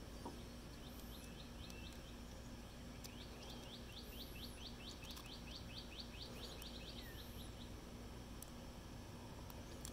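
Songbird singing: a rapid trill of repeated high notes, about six a second, from about three seconds in to past seven seconds, with a shorter trill about a second in and thin, very high calls every few seconds. A few faint clicks of small parts being handled.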